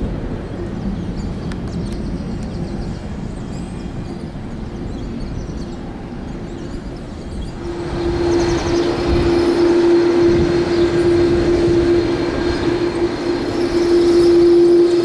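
Aircraft engines running with a steady humming tone over a rushing noise, growing louder about halfway through as the aircraft comes closer.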